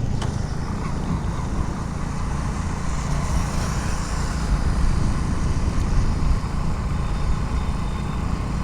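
Motorcycle riding at moderate speed, heard from a helmet-mounted camera: a steady low rumble of wind and engine noise with no distinct events.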